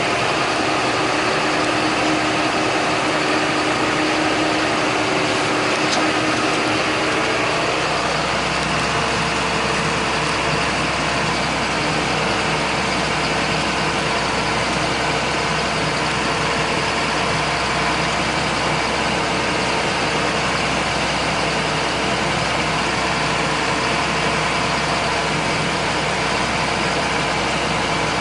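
John Deere 8100 tractor's diesel engine running steadily. Its deep hum grows stronger about eight seconds in.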